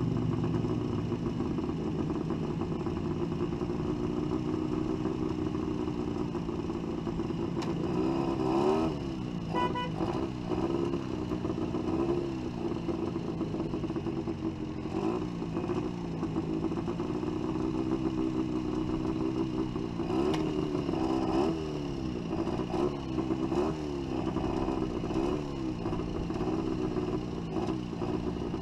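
Villiers 2T 250 cc two-stroke twin of a 1966 Panther Model 35 sports motorcycle ticking over unevenly in slow traffic. The revs swing up and down in several short throttle blips.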